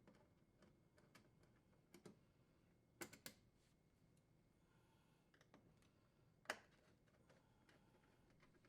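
Faint, scattered clicks and light taps of screws being unthreaded from a dishwasher's sheet-metal door panel with a Torx driver, with a close pair about three seconds in and the sharpest click about six and a half seconds in.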